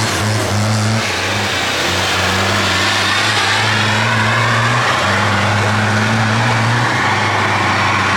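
Tractor engines running loud and steady, with the engine pitch shifting up and down a few times.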